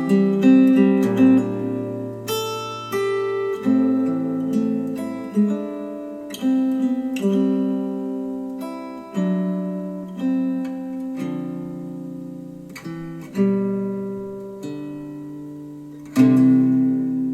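Slow acoustic guitar music: chords struck about every one to two seconds and left to ring out and fade, played back through Polk Audio Reserve R200 bookshelf speakers.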